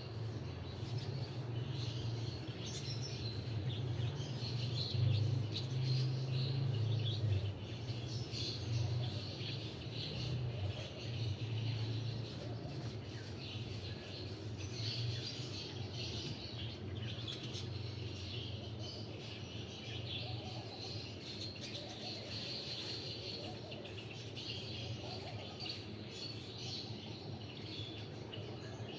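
Small birds chirping and twittering again and again, over a steady low hum.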